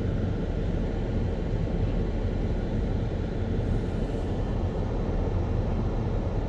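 Engine of a snow-plowing vehicle running steadily: a low, even rumble with no change in pitch or level.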